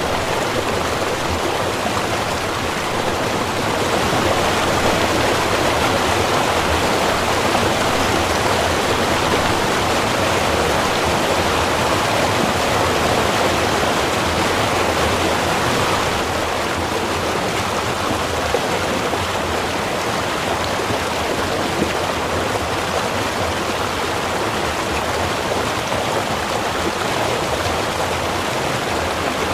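A small river flowing steadily, a continuous rush of running water that swells slightly a few seconds in and eases back about halfway through.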